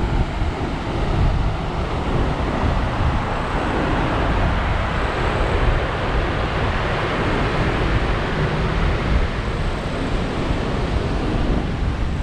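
Heavy surf after a typhoon breaking and washing up a gravel beach, a steady roar of water with wind buffeting the microphone.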